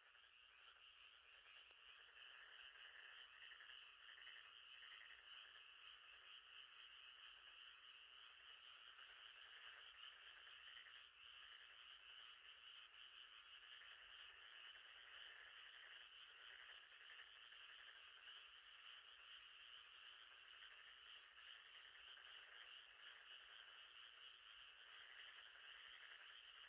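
Faint night chorus of frogs and insects: a steady high trill with a pulsing lower layer of calls, swelling in at the start.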